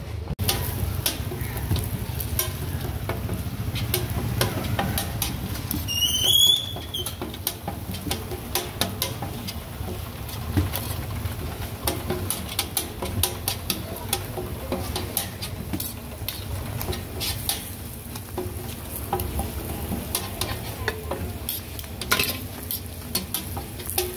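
Parathas sizzling in oil on a large flat griddle (tawa), with many small sharp clicks and taps of metal utensils against the griddle. A short high warbling chirp comes about six seconds in.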